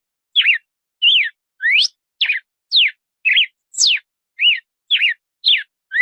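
Red-cowled cardinal (galo-de-campina) singing: a steady run of short, clear whistled notes, about two a second, some sliding up in pitch and others sliding down.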